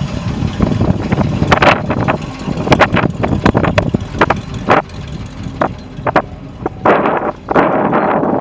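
Ford grain truck's engine running, with wind buffeting the microphone and many scattered clicks and knocks.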